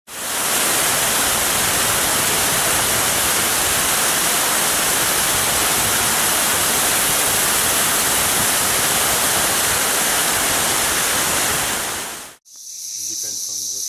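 Loud, steady rushing of water, even and unbroken, that cuts off abruptly near the end. After it comes a thin, high, steady chirring of insects.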